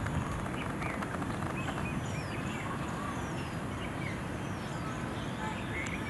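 Small birds chirping: many short high notes and quick falling whistles, scattered and overlapping, over steady low background noise.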